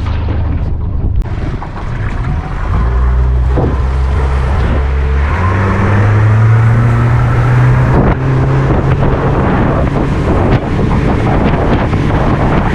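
Yamaha F75 four-stroke outboard being opened up, its note climbing over the first several seconds and then running hard and steady at speed. Heavy wind buffets the microphone, and water rushes past the hull. The motor is new and still being run in.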